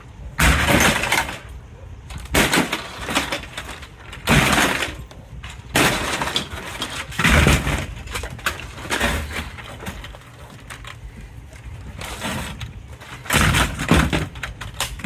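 A 55-inch Sony LED TV being broken apart: about six separate crashes of breaking plastic and glass, with quieter scraping and rattling between them.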